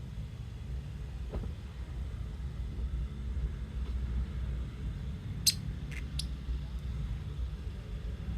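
Three short, sharp lovebird chirps in quick succession, over a low steady rumble in the background.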